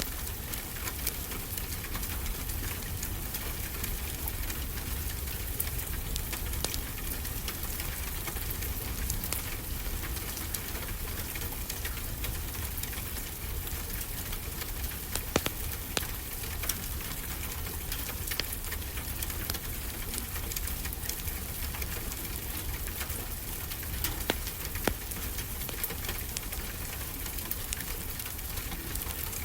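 Steady rain falling, with a wood fire crackling over it in scattered sharp pops, a few of them louder.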